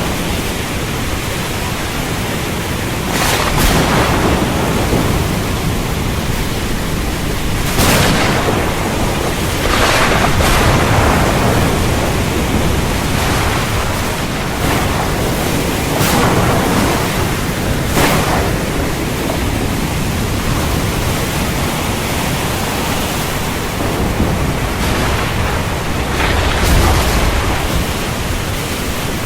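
Heavy rain pouring steadily in a thunderstorm, with several brief louder cracks and surges of thunder over the rain.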